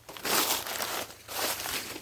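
Rustling, crinkling noise that comes and goes in several surges.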